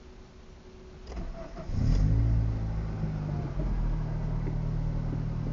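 A 2004 Acura RSX's 2.0-litre four-cylinder is cranked by the starter about a second in. It catches, flares up briefly and settles into a steady idle, started to warm the engine up before an intake runner solenoid actuation test.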